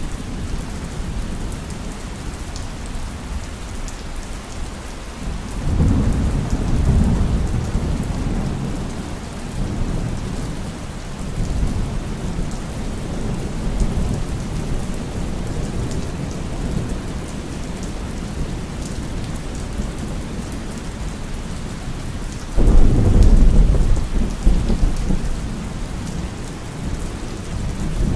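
Heavy, steady rain with thunder rumbling twice: a rolling rumble about six seconds in, then a sharper, louder clap near the end.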